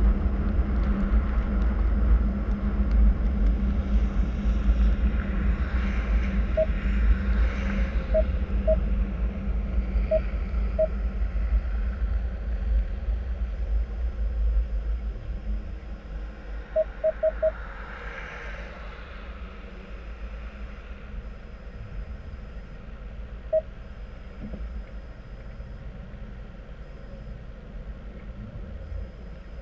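Car driving on a snowy road, heard from inside the cabin: a steady low road-and-engine rumble that falls off in the second half. Short high beeps come at irregular intervals, with a quick run of four a little past halfway.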